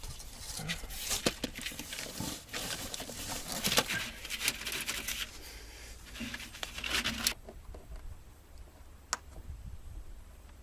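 Plastic wire conduit and cable being handled and worked onto the wiring, crinkling and rustling with sharp clicks for about seven seconds, then a single click.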